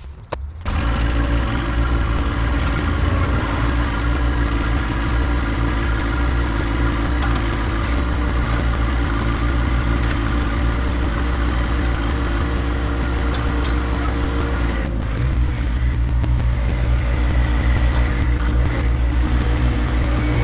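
John Deere 1025R compact tractor's diesel engine running steadily, starting abruptly under a second in; about 15 seconds in it dips briefly, then runs a little louder and deeper.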